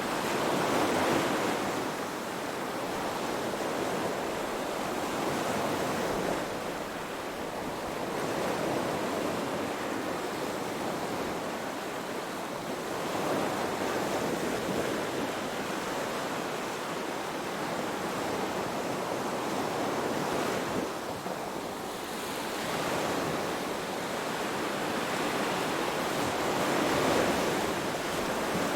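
Ocean waves washing in, a steady rush of surf that swells and falls back every six or seven seconds.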